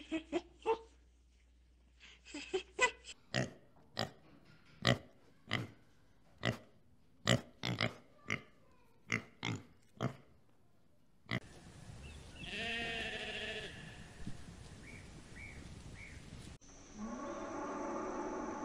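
Pig grunting as it roots, a run of short, sharp grunts about one to two a second. Near the end, a cow mooing.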